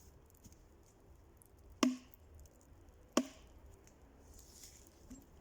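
Two sharp knocks about a second and a half apart, each with a short ringing tail.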